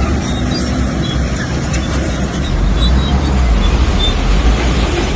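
Bulldozer's diesel engine running steadily and loud, with a deep low rumble.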